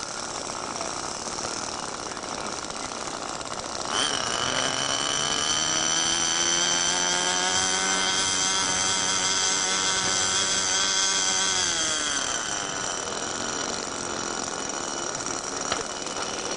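Small two-stroke model airplane engine: it runs in the background, then is revved up sharply about four seconds in. It holds a high, steady whine for several seconds and is throttled back near the end.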